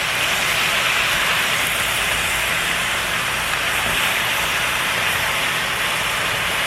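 Food sizzling steadily in a pan on medium-high heat.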